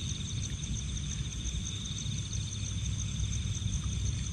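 Night-time insect chorus, crickets trilling steadily at two high pitches with a faint pulsing beat, over a low rumble.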